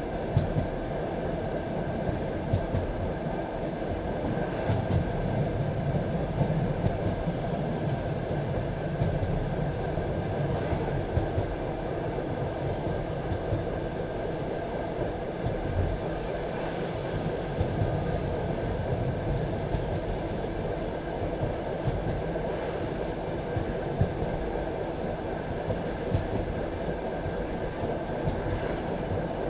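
Passenger train carriage running steadily along the track, its wheels rumbling on the rails, with scattered sharp clacks over rail joints.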